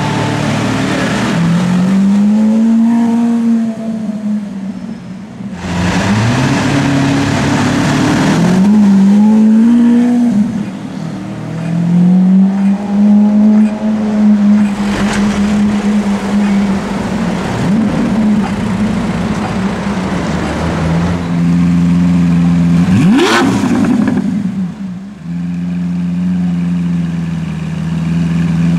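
Lamborghini Aventador LP700's V12 engine accelerating in several pulls, its pitch climbing and dropping back again and again as it revs and shifts. A loud rush of passing noise comes about six seconds in, and a sharp rising rev comes near the end.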